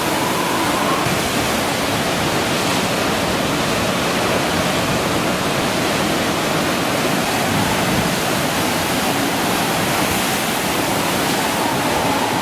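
A steady, loud rush of water from a rainstorm and flooding, with no breaks or changes.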